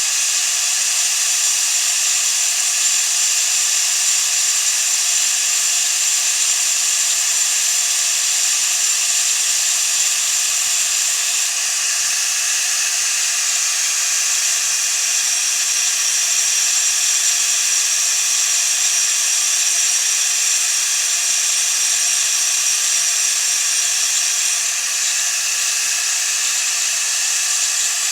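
High-speed power tool running continuously with a high whine. The pitch drops slightly about 12 seconds in and shifts again near the end.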